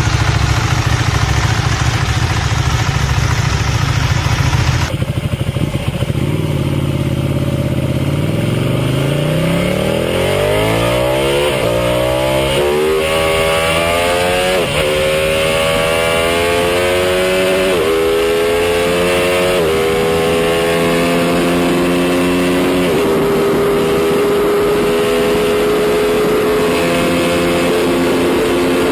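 Motorcycle engine accelerating hard through the gears: the pitch climbs, falls back at each upshift about five times, then holds steady at high revs near the end. The first few seconds are a rougher, noisier engine sound that cuts off abruptly.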